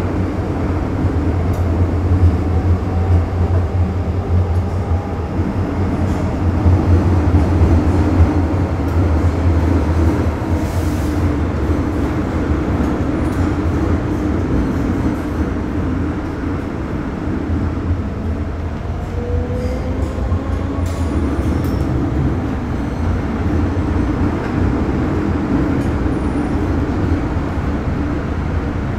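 Steady low rumble of a vehicle in motion, with a few faint short squeals.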